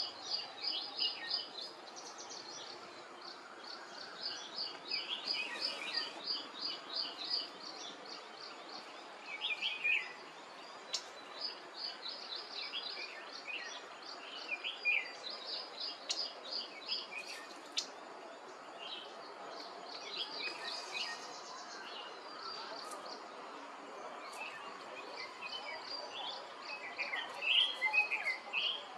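Wild birds calling: runs of quick, high repeated notes, about five a second, coming back every few seconds, with scattered chirps and short falling notes, over a steady background noise.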